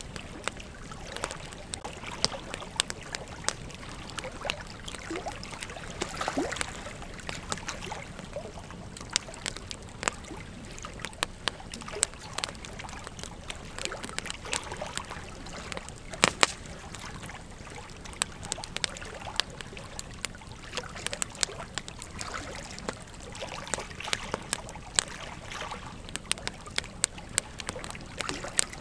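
Wood campfire crackling, with irregular sharp pops and snaps over a steady hiss of burning; one of the loudest pops comes about halfway through.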